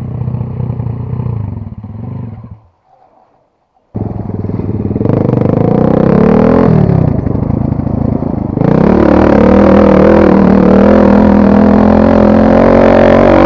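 Chinese two-stroke dirt bike engine running, then dropping out about two and a half seconds in. About a second later it comes back abruptly and is revved up and down, then held at high revs from about nine seconds in.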